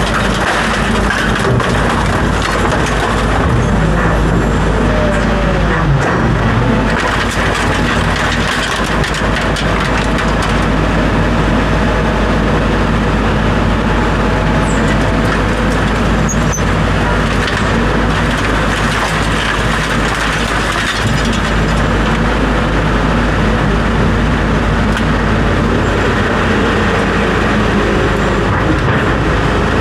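A motor vehicle running: a steady, loud rumble with constant noise over it, and a few short sliding tones in the first several seconds.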